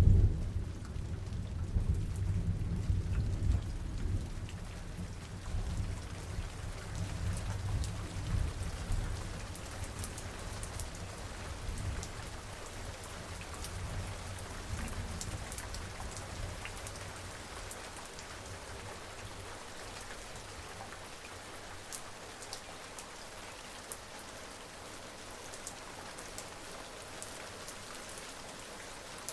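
Steady rain with a roll of distant thunder that is loudest right at the start and rumbles on, fading away over about ten seconds. Sharp ticks of single raindrops sound through the rain.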